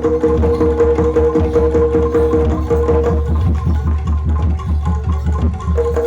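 Live jaranan music from a Javanese gamelan-style ensemble: drums beat a fast, dense rhythm over a deep low pulse, and a held tone drops out about halfway through and comes back near the end.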